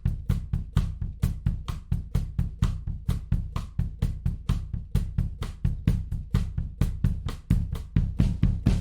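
Recorded drum kit playing a steady, busy beat of kick, snare and hi-hat, about four to five hits a second, heard through a tape-emulation plugin.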